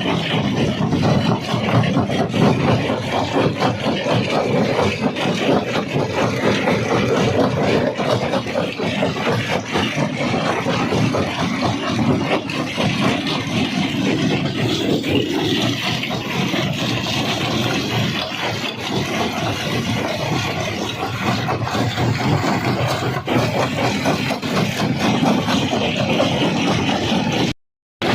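Rock crusher running under load: a steady heavy machine noise with a dense, continuous clatter and knocking of stone being broken. The sound drops out for a moment just before the end.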